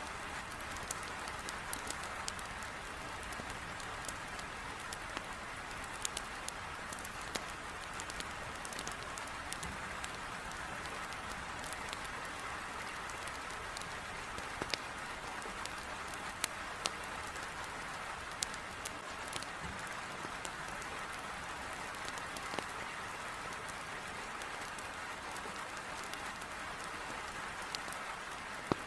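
Heavy rain beating against a window in a steady hiss, with scattered sharp crackles and pops from burning firewood in a fireplace.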